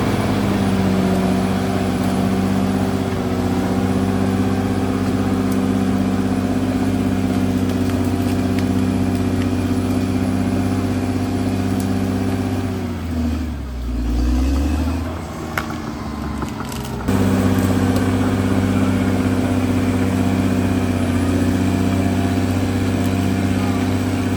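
CAT D6R XL bulldozer's diesel engine running at a steady pitch. A little past halfway the engine note sags and wavers for a few seconds, as under load, then the steady running returns suddenly.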